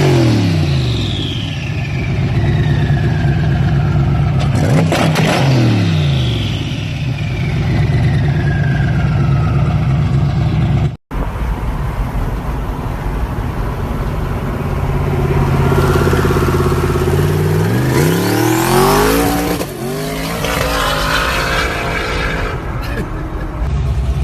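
Twin-turbo car engines running hard. The first engine's pitch falls steeply twice, about five seconds apart. After a cut, a second engine runs steadily and then revs up twice near the end.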